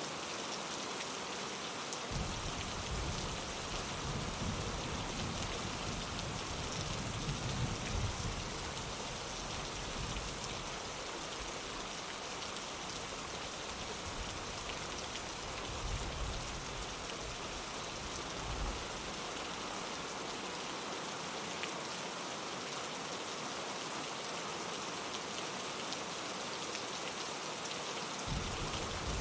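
Steady rain falling on a window pane, a continuous even hiss. A low rumble of thunder sits underneath, from about two seconds in until a little past halfway, strongest around a quarter of the way through.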